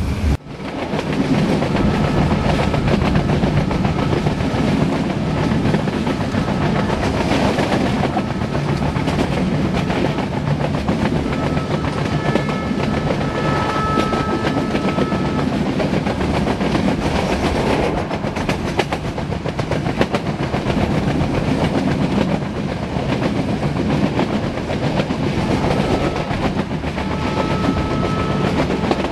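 Passenger train coach running at speed, heard from inside with the windows open: a steady rumble with the wheels clicking over rail joints. A faint high steady tone comes in briefly around the middle and again near the end.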